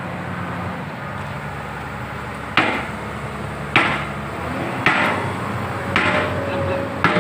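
A sledgehammer strikes steel five times, about a second apart, starting a few seconds in, each blow with a short metallic ring, as the bucket pin is driven in. The excavator's diesel engine idles steadily underneath.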